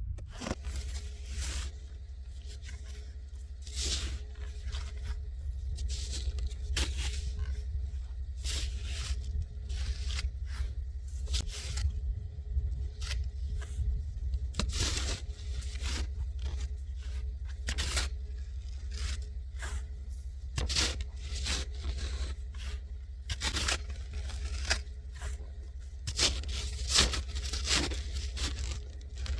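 Snow shovel scraping and crunching through dry, very cold snow in irregular strokes about once a second, over a steady low rumble.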